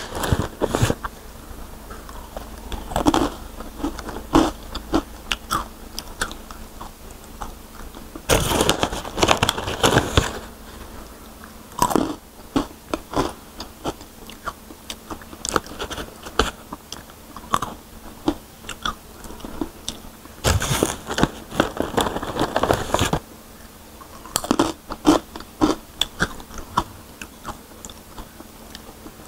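Close-up crunching and chewing of crisp fried fruit and vegetable chips, picked up by a clip-on microphone: irregular sharp crackles, with a few longer, louder bursts of crunching.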